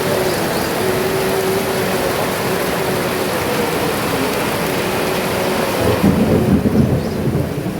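Heavy rain pouring steadily, with a low rumble of thunder swelling about six seconds in.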